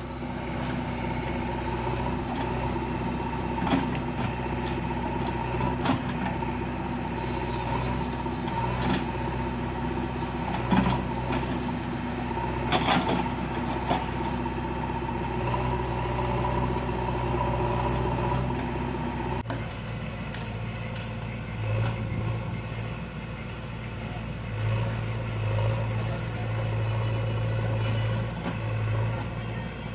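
JCB backhoe loader's diesel engine running steadily, with occasional sharp metallic knocks from the machine at work. About two-thirds of the way through, the engine note changes abruptly and keeps running.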